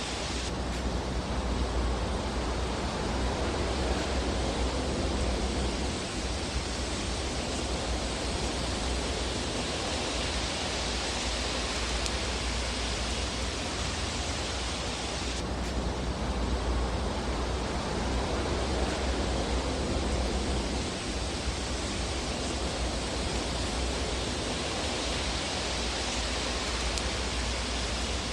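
Fireplace fire sound: a steady rushing hiss over a deep rumble, with no distinct crackles standing out. The hiss brightens abruptly just after the start and again about fifteen seconds in.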